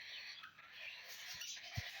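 Faint chirping and chatter of lovebirds, with a soft low thump near the end.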